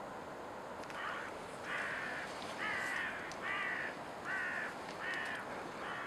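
A bird gives a run of about seven harsh, evenly spaced calls, each about half a second long, starting about a second in, over a steady background hiss.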